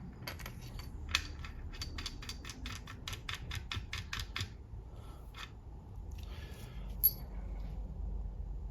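Light clicking from small bolts being handled and set into a transmission valve body: a quick run of clicks at about four or five a second, then a few single clicks, with one sharper click about seven seconds in.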